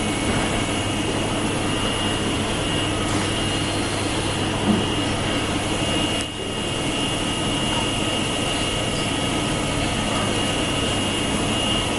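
Eight-spindle 4-axis CNC wood router running a dry cycle without cutting: a steady machine noise with a high, even whine.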